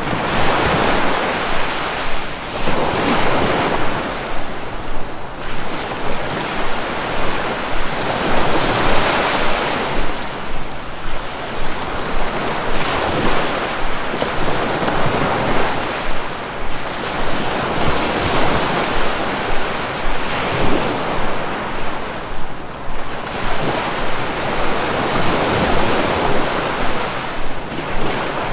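Sea waves washing onto the shore, a steady surf that swells and ebbs every two to three seconds, with some wind noise.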